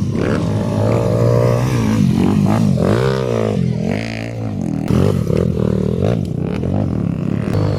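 Motocross dirt bike engines revving, pitch rising and falling over and over as the throttle is opened and closed.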